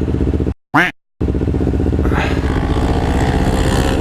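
Kawasaki Ninja 300 parallel-twin motorcycle engine running steadily, heard from the rider's helmet. The sound cuts out completely twice, briefly, about half a second in, and another engine sweeps up and down in pitch about two seconds in.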